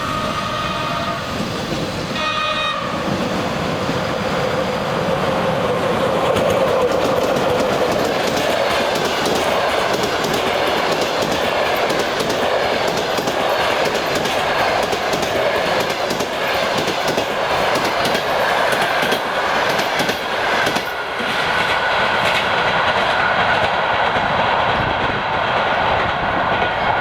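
ChS7 electric locomotive sounding its horn: one blast that ends about a second in and a short second blast about two and a half seconds in. The locomotive and its passenger coaches then pass, wheels clicking steadily over the rail joints.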